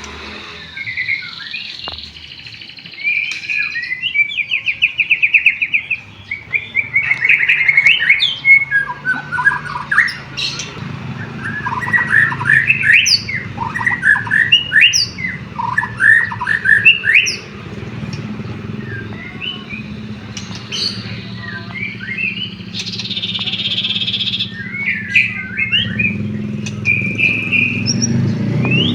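White-rumped shama singing a continuous, varied song of whistles, rapid trills and quick chirps, including phrases copied from canary song. A low steady hum sits beneath it from about a third of the way in.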